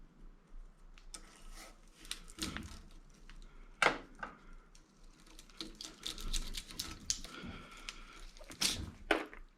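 Hand tools working copper windings out of an electric motor: irregular metallic clicks, snaps and scraping, with sharp louder snaps about four seconds in and twice near the end.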